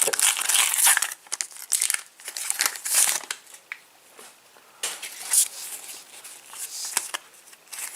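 Crinkling and tearing of a Match Attax trading-card packet's wrapper as it is ripped open, in irregular rustling bursts with a short lull about four seconds in.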